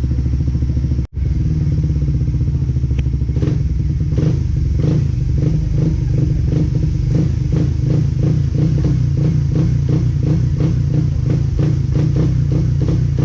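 Suzuki Raider 150 Fi motorcycle's single-cylinder engine running steadily. A brief dropout comes about a second in, and a regular ticking clatter joins in from about three and a half seconds.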